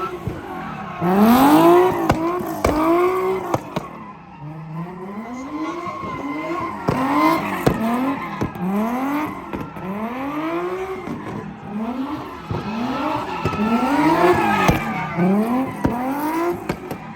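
Car engine revving up and dropping back about once a second, with a short lull partway through, while the tyres squeal and spin in a burnout or drift.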